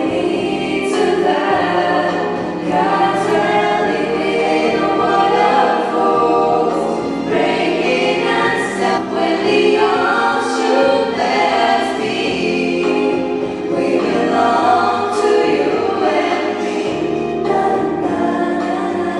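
Music: a group of voices singing a song together in a choral style.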